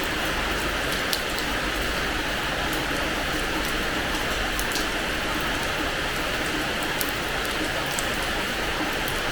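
Steady rain falling on a terrace floor, an even hiss with scattered sharp drop clicks.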